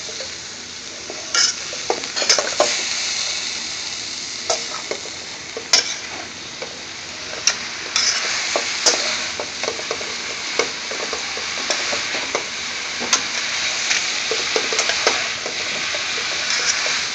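Shredded potato and beans sizzling in hot oil in a pan, stirred and tossed with a metal spoon that scrapes and clinks against the pan at irregular moments over a steady frying hiss.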